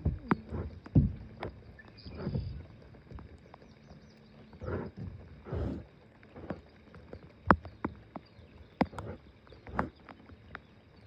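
Irregular knocks and bumps on a small boat, mixed with short swishes of water against it.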